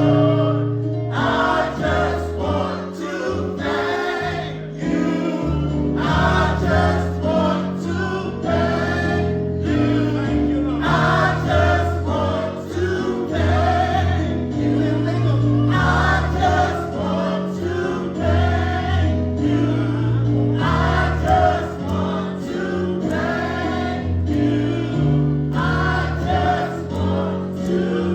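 Gospel choir singing over an accompaniment with a steady bass line, in repeated sung phrases.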